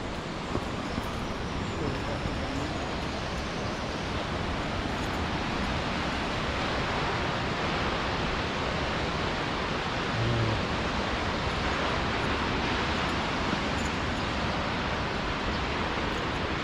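Steady rushing of the Baatara gorge waterfall, slowly growing louder.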